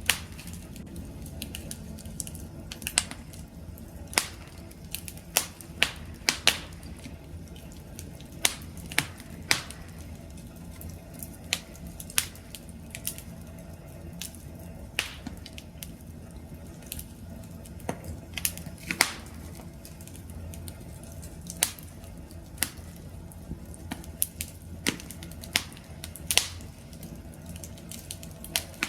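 Wood fire crackling: a steady low rumble of flames with sharp, irregular pops and snaps of burning wood, a few each second.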